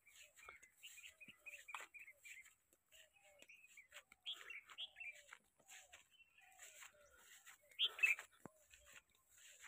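Birds chirping faintly in many short calls, with a slightly louder burst of calls near the end.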